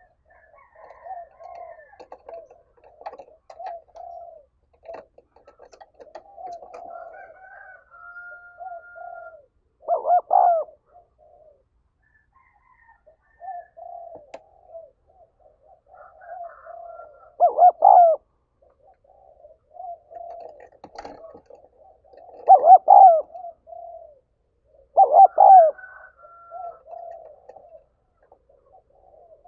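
Spotted dove cooing: a run of soft, low coos with four much louder coo phrases, about a third of the way in, past halfway, and twice near the end.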